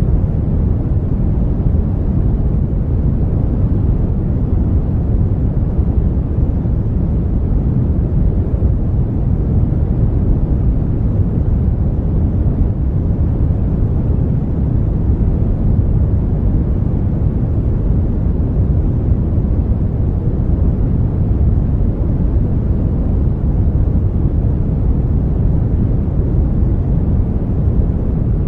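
Brown noise: a steady, even rumble of noise, heaviest in the bass and fading away toward the treble, with no changes.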